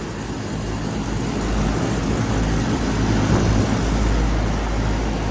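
Lennox air-conditioner units running: a steady hum and whir of condenser fans and compressors.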